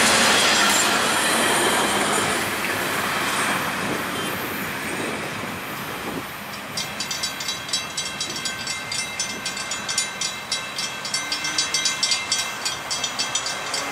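Florida East Coast Railway intermodal freight train rolling past and away as its last trailer-carrying flatcars clear the crossing, the wheel-and-rail rumble fading over the first six seconds. Then a grade-crossing bell ringing, about three strikes a second, with the signals still flashing.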